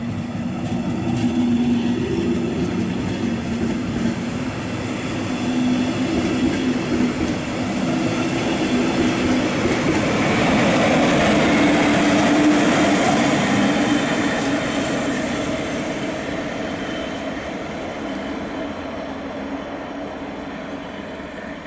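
DB class 111 electric locomotive and its double-deck coaches running past: wheels on the rails with a steady electric hum, growing louder as the locomotive passes about halfway through, then fading as the train pulls away.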